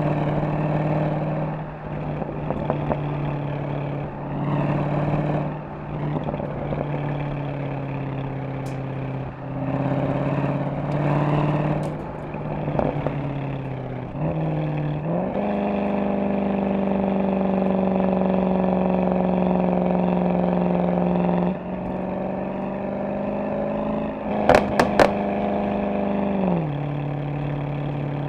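Mercedes-AMG SL63's V8 exhaust while driving. The engine note rises and falls through the first half, then climbs about halfway through and holds a steady, higher drone for about ten seconds. A few sharp cracks come near the end before the note drops back.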